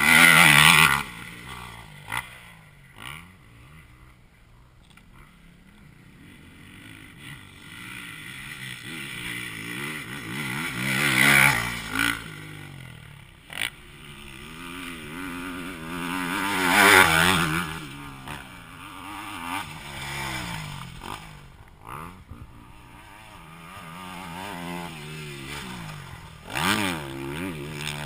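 Motocross bikes racing past one after another, their engines revving up and down in pitch as they go by. Four passes swell loud and fade, with quieter engine sound from further around the track in between.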